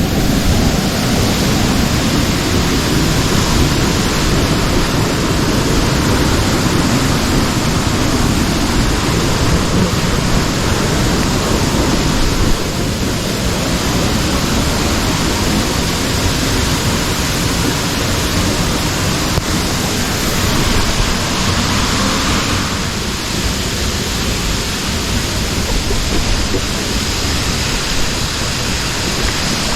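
Loud, steady rush of water from a waterfall with pouring rain, a constant roar with no distinct strokes. It drops a little in level about twelve seconds in.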